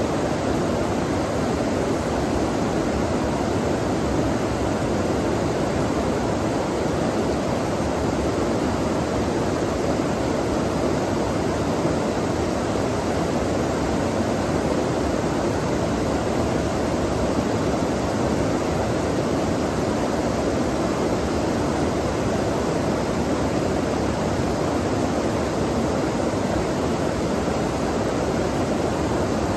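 Flowing stream water rushing steadily and evenly, with no pauses or separate events.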